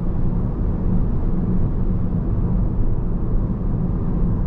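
Steady road and engine noise inside a moving car's cabin: a continuous low rumble while driving.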